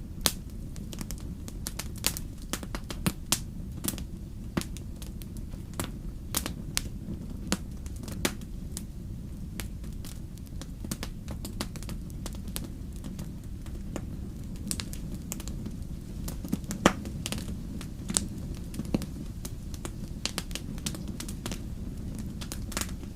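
Wood campfire crackling, with many irregular sharp pops over a steady low rumble; one pop about seventeen seconds in is louder than the rest.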